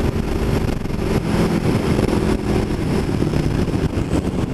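Aprilia Tuono V4 1100 Factory's V4 engine running under way at a steady speed, its note shifting briefly about a second in, with wind rush over the microphone.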